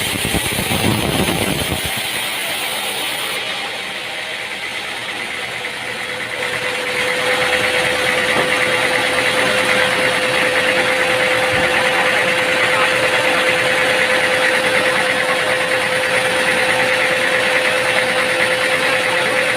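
Machinery running steadily with an engine-like drone. About a third of the way in, a loud, steady whine at one pitch sets in and holds.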